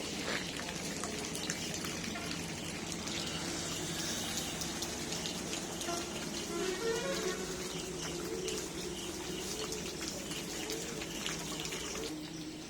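Heavy rain falling steadily: an even hiss of rain with many sharp drop hits through it.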